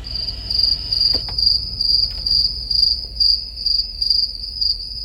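Insects chirping: one steady high-pitched trill pulsing about two or three times a second, over a low rumble.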